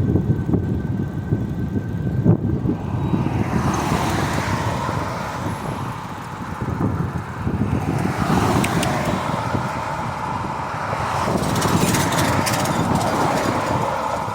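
Road traffic: cars going by, their tyre noise swelling and fading twice, over a steady low rumble.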